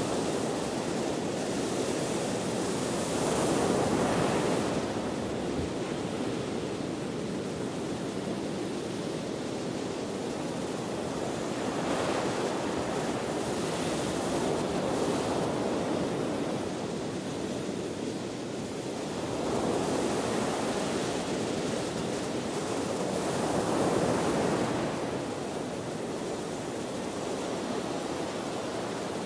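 Ocean waves breaking and washing on a shore, swelling and falling away every several seconds, with wind in the background.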